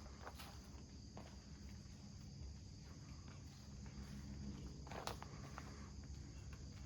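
Footsteps walking over ground, with a louder step about five seconds in, over a steady high insect trill.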